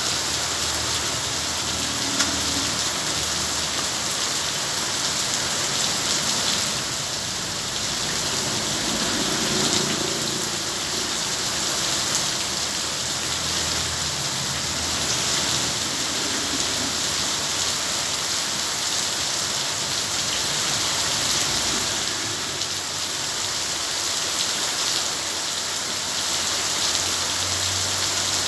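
Steady heavy rain falling, an even continuous hiss with no break.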